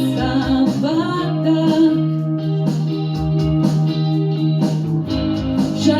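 A song in Latvian sung over instrumental accompaniment with guitar, one sung word falling about two seconds in, over held chords and a steady bass line.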